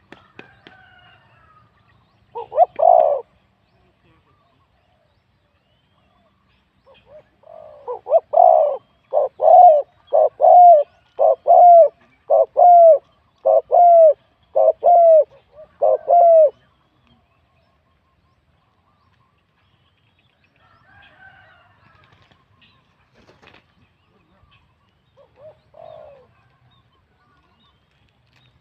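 Spotted dove cooing: a single coo about two seconds in, then a run of about nine evenly spaced coos, roughly one a second, and one faint coo near the end.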